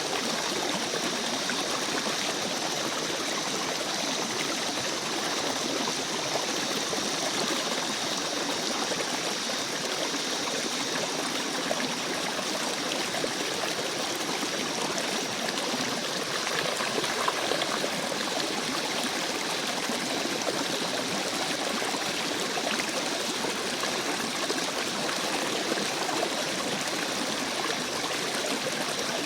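A flowing stream, a steady even rush of water. Over it at first there is a faint steady high-pitched tone, which fades after several seconds.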